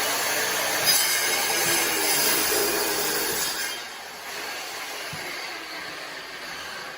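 A power tool cutting stone for the fireplace cladding: a loud, steady, hissing grind that stops about three and a half seconds in, leaving a quieter background noise.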